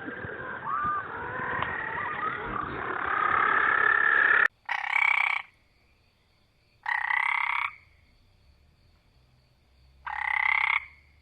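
Frogs calling: first a dense chorus of many overlapping calls that cuts off suddenly about halfway, then three single croaks, each under a second long, a few seconds apart.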